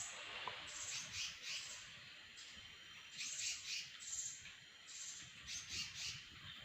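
High, thin bird chirps in short bouts that repeat every second or so, over faint forest background.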